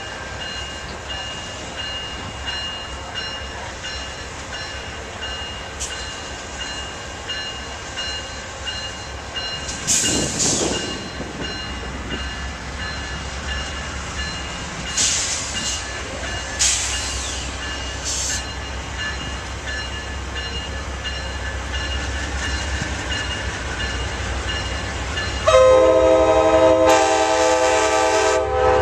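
A train running through a station with a steady low rumble and a few short hissing bursts. About 25 seconds in, a locomotive's multi-tone air horn starts loudly and keeps sounding.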